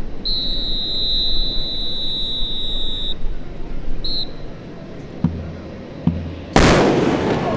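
A long high whistle blast of about three seconds and a short one a second later, then a single loud ceremonial salute shot about a second before the end, which rings out with an echo.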